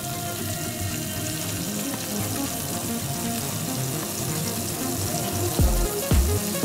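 Cornstarch-coated beef pieces sizzling steadily in hot oil in a frying pan. Background music runs under it, its deep beat thumping about twice a second from about five and a half seconds in.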